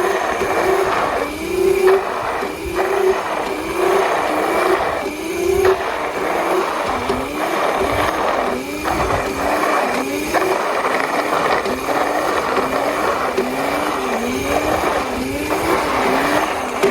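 Razor MX350 electric dirt bike's motor whining, its pitch rising and falling back over and over as the throttle is worked during a wheelie, over a steady rushing noise.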